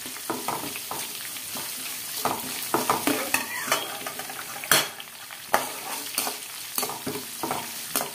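A tempering of chana and urad dal, green chillies, garlic and curry leaves sizzling in hot oil, stirred with a perforated steel skimmer ladle that scrapes and clicks against the pan. The clicks are irregular, and the sharpest come about five seconds in.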